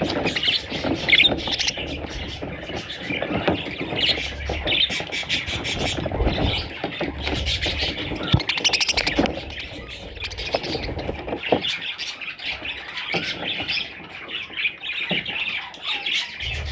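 Budgerigars chirping and chattering in a rapid, continuous warble, with occasional squawks.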